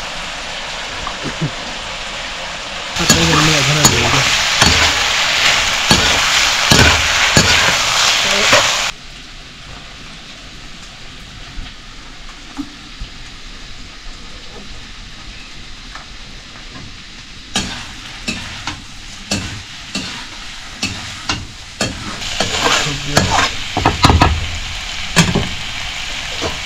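Sliced chayote frying in a metal wok, sizzling steadily, with a much louder stretch of sizzling for several seconds early on. In the second half, a utensil scrapes and clicks repeatedly against the wok as the vegetables are stirred.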